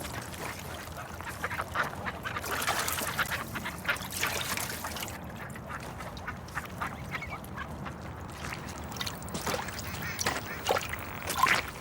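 Ducks quacking, a scatter of short calls over a noisy background, with a few clearer calls near the end.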